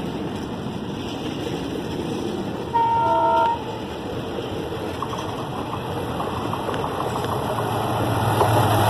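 Passenger train coaches running past with steady rolling noise, cut through by a short blast of a locomotive horn about three seconds in. A diesel locomotive's engine hum builds toward the end as it approaches on the next track.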